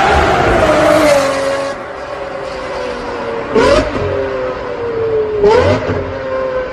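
Lamborghini Murciélago V12 running through an aftermarket exhaust, held at raised revs that fall away a little under two seconds in, then blipped sharply twice, once near the middle and once near the end, each blip a quick dip and rise in pitch.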